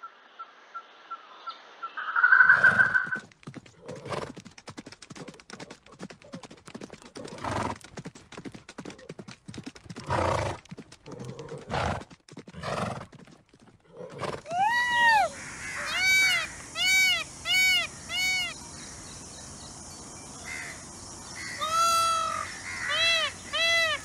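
Horse hooves clip-clopping in an irregular run of knocks, with a loud burst just before them. Then, from a little past halfway, an Indian peacock calling over and over in short calls that rise and fall in pitch.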